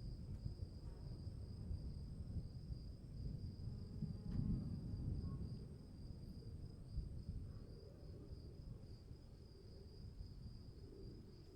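Crickets chirping in a steady high trill, over a low rumble that fades after about six seconds.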